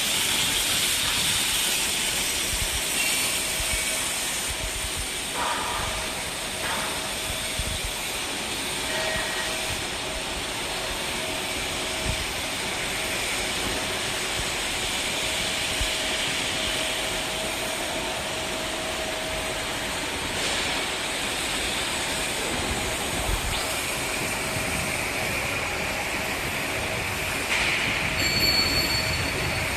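Fibre cement board production line machinery running steadily: a continuous hissing noise over a faint steady hum, with a short high-pitched squeal near the end.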